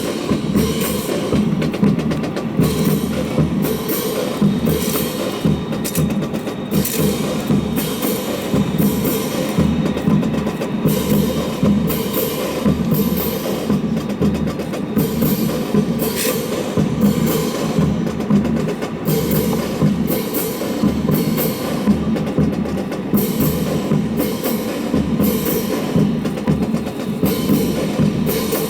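Drill-team percussion playing a steady rhythm of sharp, repeated strikes.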